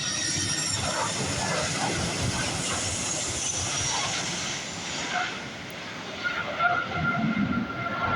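Boeing 737 jet engines and rushing air during landing: a steady, broad hiss-like rush, with a high whine falling in pitch partway through and two steady tones coming in near the end.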